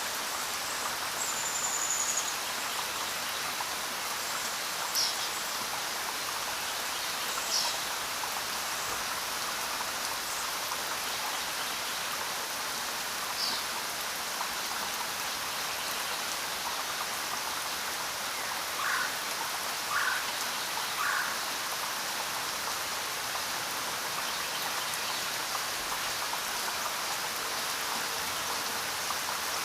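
Steady rain falling, an even hiss, with a few short bird chirps here and there, including three short calls in a row about two-thirds of the way through.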